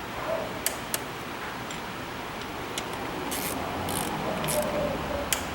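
Hand tools working on engine bolts: a few sharp metal clicks, then short rasping strokes about every half second, as from a ratchet or torque wrench tightening the bolts of a plastic intake manifold.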